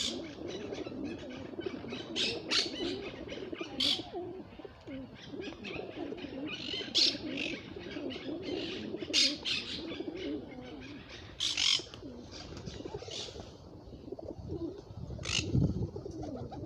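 Several birds calling at once: a steady low murmur of cooing, with short high chirps breaking in every second or two.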